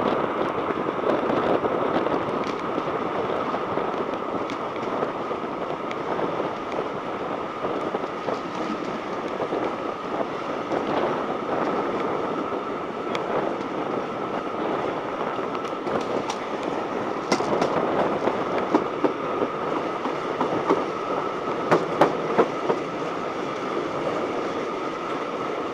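Heritage railway carriage running along the line, heard from an open window: a steady rolling rush with the clickety-clack of wheels over the rails. Sharper clicks come in small clusters in the last third.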